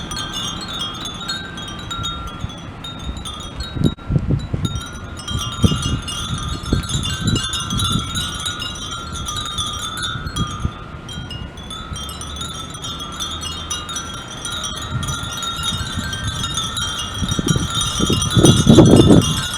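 Many Japanese furin wind chimes tinkling continuously in the breeze, their high ringing tones overlapping. Low rumbling surges come and go beneath them, the strongest near the end.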